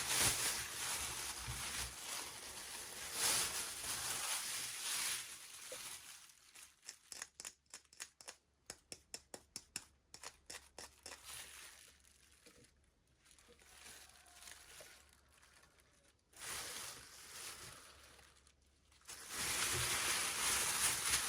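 Plastic toy packaging being handled and torn open: crinkling and tearing, with a run of quick, sharp strokes, about three a second, in the middle, then a lull and more crinkling near the end.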